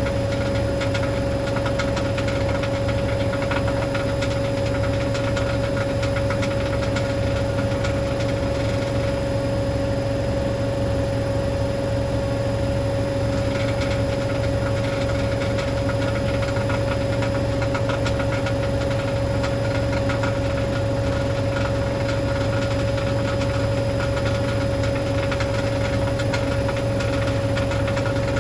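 Hoover DynamicNext washing machine spinning at speed: a steady motor whine over a low, evenly pulsing drum rumble. It has a rattle from a £1 coin trapped under the heating element, the cause of the machine's spin noise.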